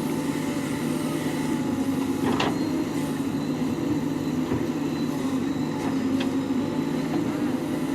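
Heavy diesel engine running steadily at an even speed, with two brief knocks, one a couple of seconds in and one near the end.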